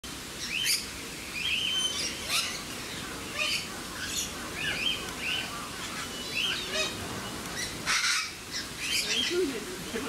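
Birds chirping, short arched calls coming about once or twice a second, some with sharp high chips. A brief harsh, noisy burst comes about eight seconds in.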